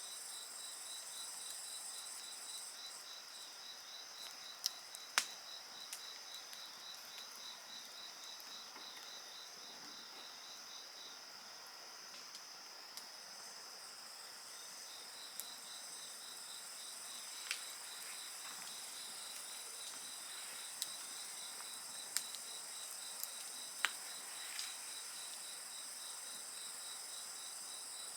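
A steady chorus of insects calling, with one high, pulsing chirp repeating about four times a second; the chirping pauses for a few seconds mid-way. Sharp pops and crackles from a wood bonfire break in a handful of times.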